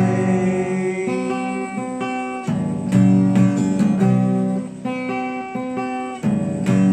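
Acoustic guitar strummed in chords, changing chord about every second, closing out the song after its last sung line.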